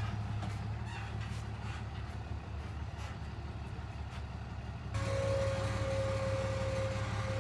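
Truck engine running with a steady low hum; about five seconds in the sound steps up suddenly and a steady whine joins it.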